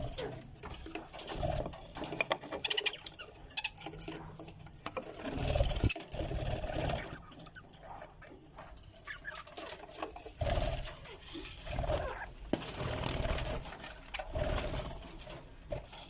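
Budgerigars chattering and chirping in short, uneven bursts, with intermittent low bumps.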